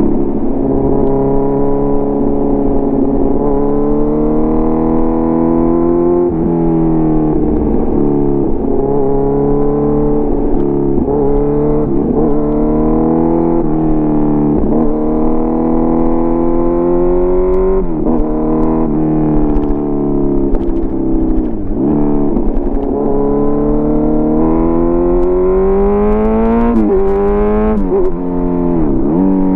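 Kawasaki Z900's inline-four engine running through an SC Project CRT exhaust under way. The engine note climbs gradually, broken every second or two by short, sharp dips in pitch that recover at once.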